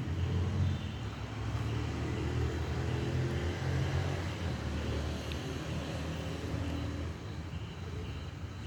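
A vehicle engine running steadily with a low hum that eases off slightly toward the end.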